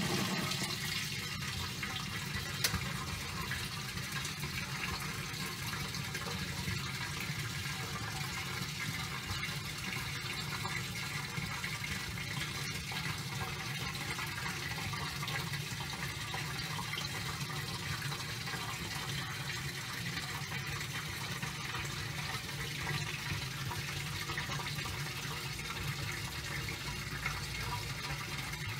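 Water pouring steadily into the tub of a top-loading washing machine as it fills.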